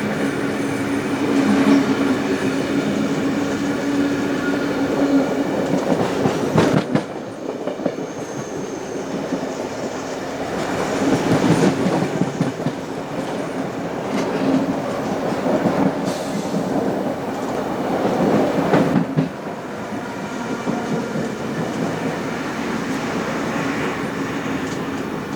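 Train running along the track: a steady rumble of wheels on rail with a droning tone. The sound drops suddenly twice, about seven seconds in and again about nineteen seconds in.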